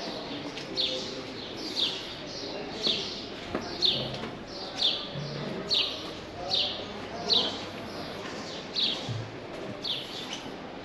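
A small bird chirping over and over: short, high, falling chirps at a steady rate of about one a second.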